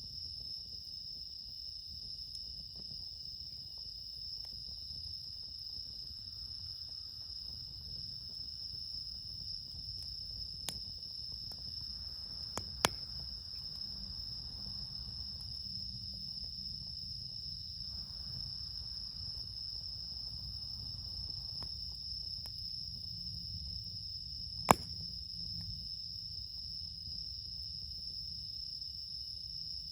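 Crickets chirping in a steady, unbroken high trill, with a few sharp campfire pops, the loudest about three-quarters of the way through.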